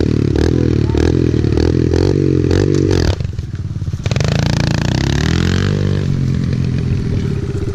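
Small motorcycle engine running hard under throttle, then briefly backing off about three seconds in before the revs climb again and level off.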